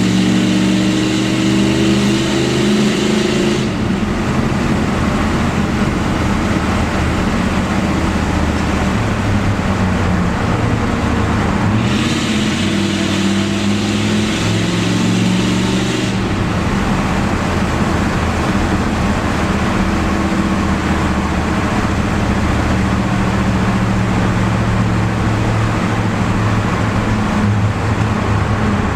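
1987 Pontiac Trans Am's 5.7-litre V8 exhaust, loud. It pulls up in revs for the first few seconds, eases off, pulls again about twelve seconds in, then settles into a steady cruise, in a long road tunnel.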